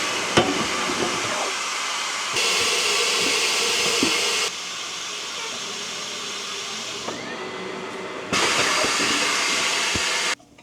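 Compressed air hissing steadily during tire removal from a wheel. It gets louder about two seconds in, eases back a couple of seconds later, rises again near the end and then cuts off suddenly.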